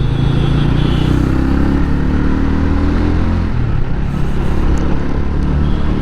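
TVS Ronin 225's single-cylinder engine pulling hard under acceleration with its bassy exhaust note. The engine note dips briefly about halfway through, then carries on.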